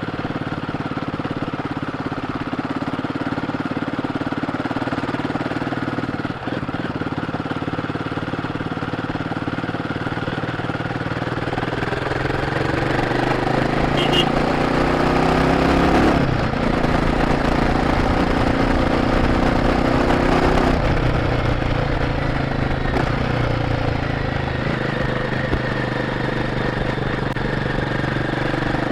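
Royal Enfield Guerrilla 450's single-cylinder engine running through its stock exhaust, heard from the rider's seat while riding. About twelve seconds in, the engine note rises under acceleration and breaks off sharply around sixteen seconds. It then climbs again and eases back just after twenty seconds.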